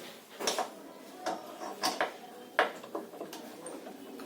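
Metal parts and tools clinking and knocking during hand assembly of a washing machine's gearbox mechanism: a few sharp, irregular clinks, the loudest about two and a half seconds in.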